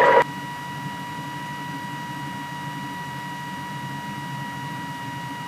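Cessna 172's engine running steadily at low power, a muffled rumble as picked up through the cockpit intercom, with a constant high-pitched electrical whine.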